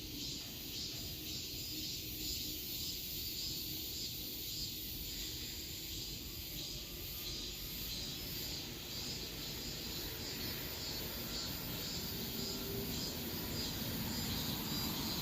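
Outdoor background noise: a steady high chirring that pulses evenly, over a low rumble that grows slightly louder near the end.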